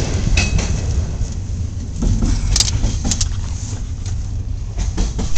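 Steady rumble of a freight train's cars rolling past, heard from inside a vehicle. There are a few sharp knocks from handling the camera and a loud bump at the very end.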